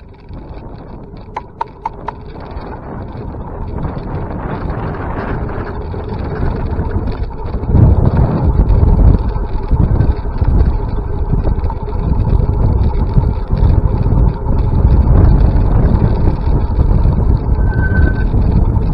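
Wind buffeting the microphone, with rushing road noise while riding. It builds steadily over the first eight seconds, then stays loud and gusty. A few sharp clicks come near the start.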